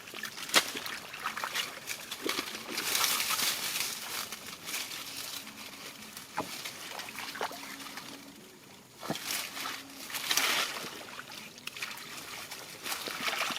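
Shallow rice-paddy water sloshing and trickling as hands work through it, with scattered sharp splashes and two longer, louder spells of splashing.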